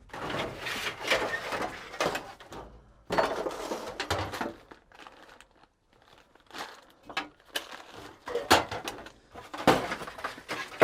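Rummaging through loose aircraft parts: rustling, scraping and light clattering as pieces are shifted and pulled out, with several sharp knocks, the loudest near the end.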